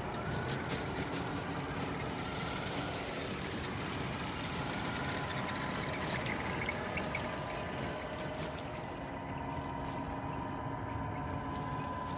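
Tamiya 1/14 Scania radio-controlled truck running, a steady mechanical running sound with a constant thin whine and a few small clicks in the first couple of seconds.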